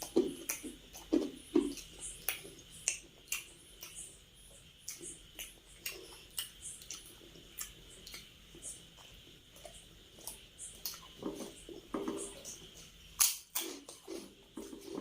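Close-miked eating: chewing and mouth clicks and smacks coming irregularly, busiest near the start and again toward the end.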